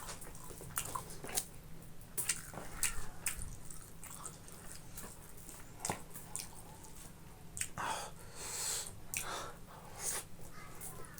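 Close-miked chewing and mouth sounds of a person eating boiled pork and rice: a run of short irregular clicks, with a couple of longer noisy passages about eight and ten seconds in.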